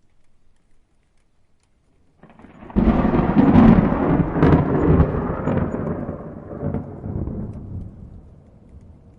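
A thunderclap: after about two seconds of quiet, a rumble builds and breaks into a loud, crackling peal with several sharp cracks, then rolls away slowly.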